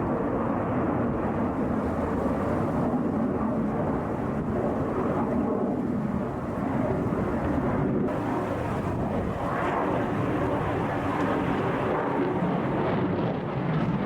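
Jet noise from a Sukhoi Su-57 fighter flying an air-show display: a steady, loud rush of engine noise that swells and eases slightly.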